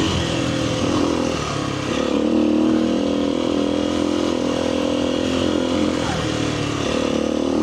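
Kawasaki KLX300R dirt bike's single-cylinder four-stroke engine running under throttle on a trail ride. The engine note holds fairly steady, dipping and climbing slightly in pitch, over a haze of wind and tyre noise.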